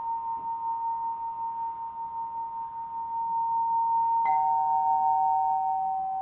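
A singing bowl ringing in a long sustained tone that wavers in loudness. About four seconds in, another bowl is struck and its lower, steadier tone rings on over the fading first one.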